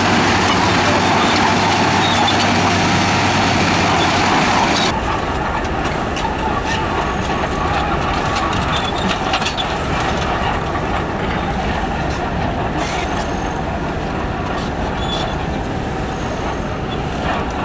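Heavy construction machinery running with a steady diesel rumble. About five seconds in, the sound changes abruptly to a lower rumble with scattered clanks and knocks.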